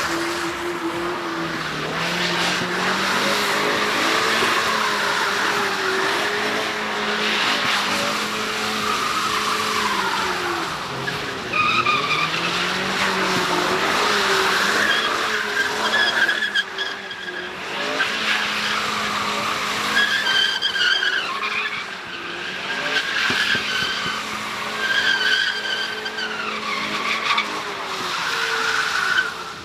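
Car drifting: its engine revs up and down continuously while the tyres squeal and skid, the squeals coming in repeated high, wavering screeches from about a third of the way in.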